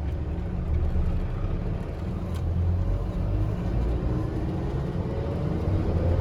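Strong sandstorm wind buffeting the microphone, a loud, gusting low rumble. There is a faint tick about two and a half seconds in.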